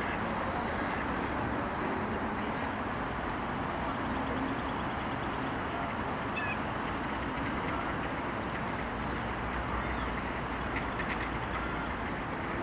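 Ducks quacking now and then over a steady background noise.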